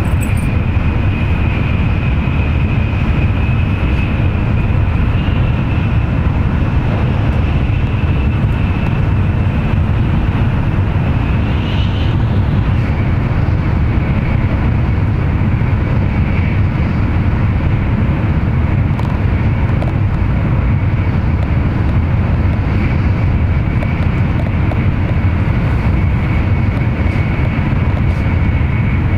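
Tokaido Shinkansen train running at speed, heard from inside the carriage at the window: a steady low rumble of the running gear with a thin, steady high whine above it.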